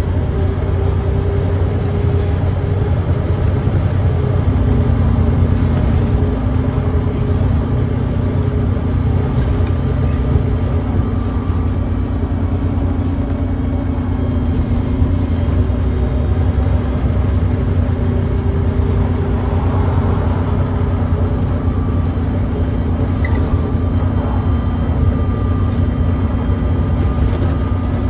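Volvo D9B 9.3-litre diesel engine of a Volvo B9TL double-decker bus running steadily, a deep continuous drone with steady engine tones. The engine has an exhaust leak.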